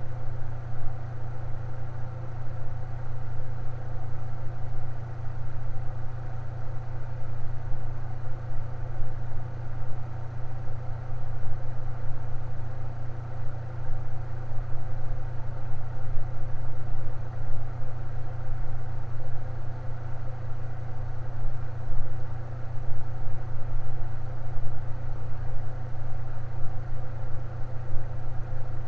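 Electric fan running steadily, with a strong low hum and an even whir above it.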